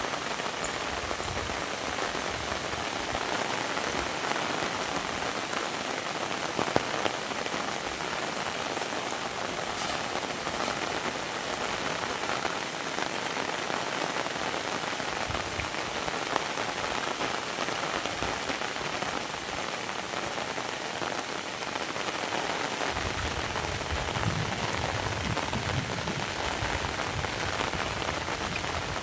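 Heavy rain falling steadily, a dense hiss of drops with a few sharper, closer drop hits. A low rumble joins in near the end.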